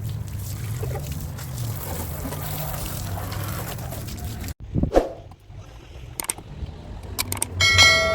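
A steady rushing noise, then after a sudden break a few knocks and clicks. Near the end comes a loud strike on metal that rings with a clear, bell-like tone for about half a second, like a hammer on sheet-metal bodywork.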